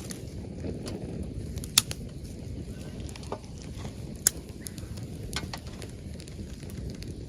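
Wood campfire burning in a fire stand, crackling, with a sharp pop a little under two seconds in and another a little after four seconds, over a low steady rush.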